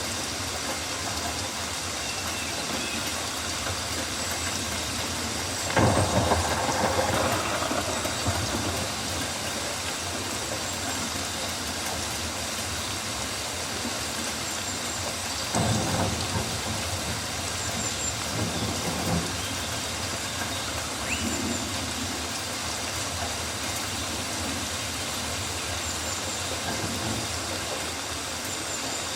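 Steady rain falling on rainforest foliage, with two louder surges about 6 and 16 seconds in.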